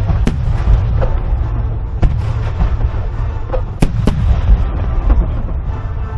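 Starmine fireworks barrage with 30 cm shakudama shells: a continuous deep rumble of overlapping bursts, broken by sharp cracks, the loudest about four seconds in.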